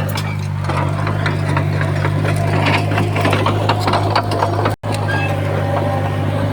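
Komatsu bulldozer's diesel engine running steadily, with rapid clanking and rattling over it from the tracks and the soil and stone being pushed. The sound cuts out for a split second nearly five seconds in.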